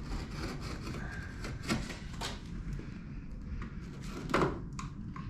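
A few scattered knocks and clunks, with a low rumble behind them, as the old physio bed's frame is handled and checked over.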